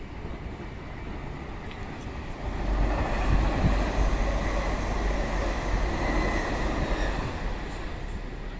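Electric multiple-unit train rumbling alongside the platform. The rumble swells about two and a half seconds in, carries a faint high whine in the middle, and eases off near the end.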